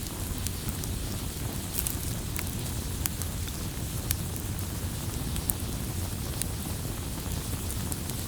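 Campfire burning: a steady low rush of flames with scattered sharp crackles and pops from the burning wood.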